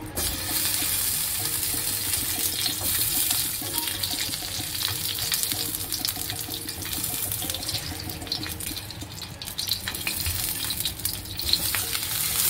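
Stuffed green chillies sizzling in hot oil in a nonstick pan as they are laid in; the sizzle starts loud as the first chilli goes in, eases a little, and swells again near the end when another chilli is added.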